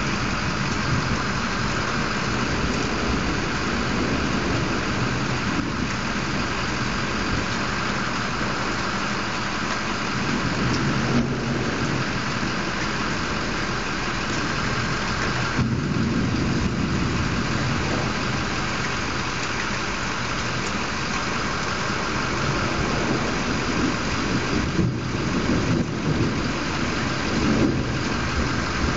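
Steady rain falling in a summer thunderstorm, an even hiss, with low thunder rumbling underneath that swells in the last few seconds.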